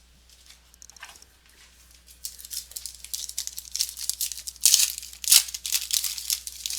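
Trading-card foil pack wrapper and cards being handled: dense crinkling and crackling that builds about two seconds in, with the sharpest crackles in the second half.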